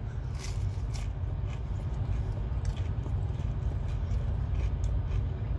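A man biting into a breaded chicken tender and chewing it, with scattered faint crunching clicks. Under it runs a steady low rumble.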